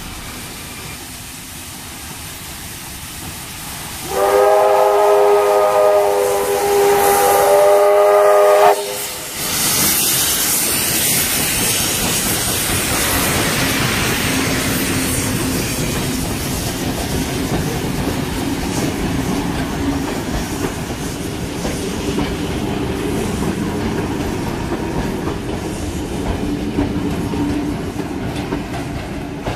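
Sydney electric suburban train sounding a multi-note horn in one long blast of about four and a half seconds, its pitch shifting slightly midway, then rolling past the platform with steady wheel-on-rail noise and motor hum.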